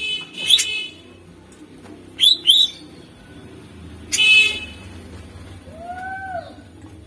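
Cucak ijo (greater green leafbird) singing in short, loud, sharp calls: one near the start, a quick double call about two seconds in, another about four seconds in, then a faint low arched whistle near six seconds.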